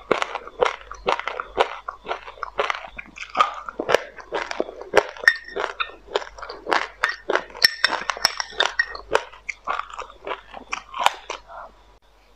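Chewing a mouthful of white sesame seeds with passionfruit pulp: a dense, fast run of small crunches and wet mouth clicks that stops shortly before the end.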